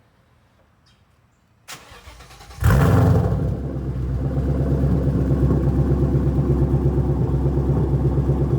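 Mustang GT's 5.0 V8 exhaust, through Flowmaster mufflers and a catless X-pipe: the starter cranks briefly, the engine fires with a loud flare about two and a half seconds in, then settles into a steady, pulsing idle.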